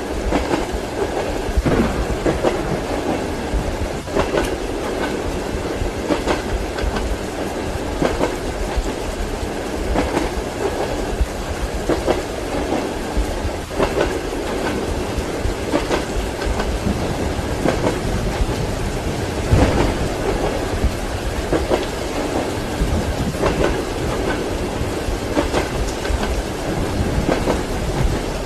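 Railway carriage running on the rails, heard from inside a compartment: a steady rumble with wheels clacking over the rail joints every couple of seconds, mixed with the steady hiss of rain.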